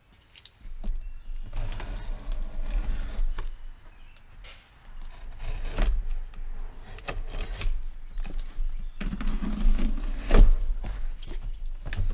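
A cardboard shipping box being opened by hand: irregular scraping and rustling with many sharp knocks and low thumps as the flaps and contents are handled.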